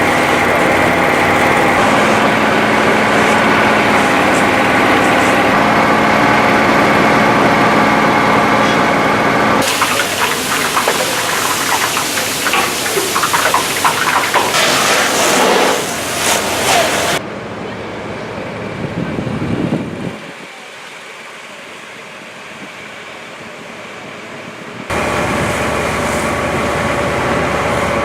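Fire appliance engines and pumps running steadily, broken by a stretch of hiss with crackling, the sound changing abruptly several times.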